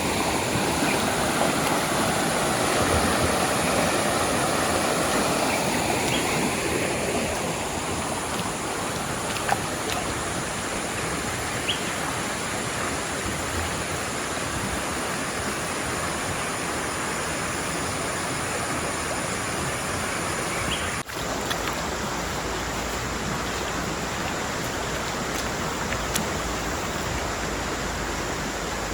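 Steady rush of flowing river water, a continuous noise that breaks off briefly about two-thirds of the way through.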